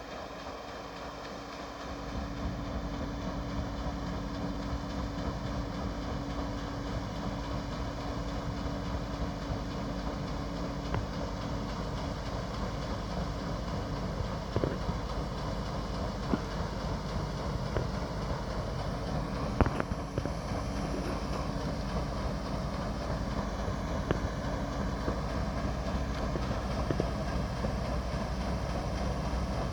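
Steady low engine drone with a constant hum, overlaid by wind noise on the microphone and a few light knocks.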